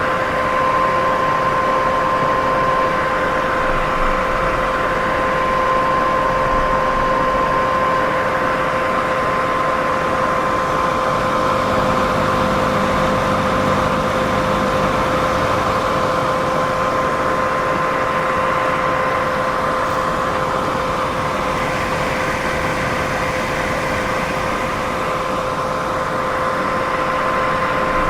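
Steady white noise: a continuous, even rushing with a constant hum running through it, unchanging throughout.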